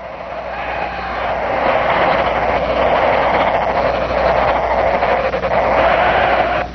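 Green woodpecker nestlings begging for food: a dense, rasping chorus of food calls that swells up over the first second or two and then holds steady.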